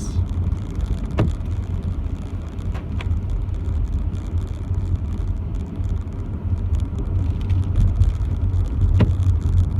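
Steady low rumble of a car, with a few isolated sharp ticks.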